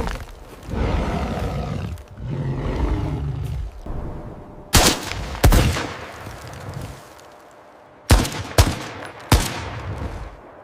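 A rough, low, noisy sound for a few seconds, then five sharp bangs, in two groups: two about a second apart, then three close together, each dying away quickly.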